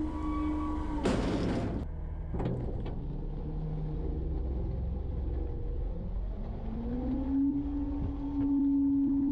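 Garbage truck running, with a short burst of air hiss about a second in. Near the end the engine speeds up into a steady, higher whine as the hydraulic packer runs.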